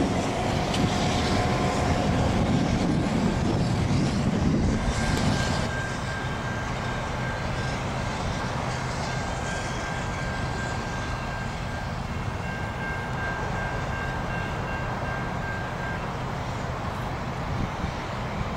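Passenger train led by an ex-Grand Trunk Western GP9 diesel locomotive running along the line, a low rumble that is loudest for the first five seconds and then settles. A faint high ringing tone comes and goes from about five seconds in until near the end.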